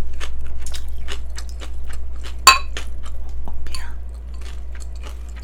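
Close-miked chewing of a mouthful of yeolmu naengmyeon, cold noodles with young radish kimchi, full of quick crisp crunches. About two and a half seconds in comes a single sharp ringing clink of chopsticks against the bowl. A steady low hum runs underneath.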